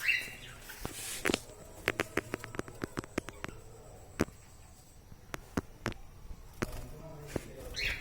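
Pet parrots moving about, making a string of sharp clicks and taps, with a brief chirp at the start and another just before the end.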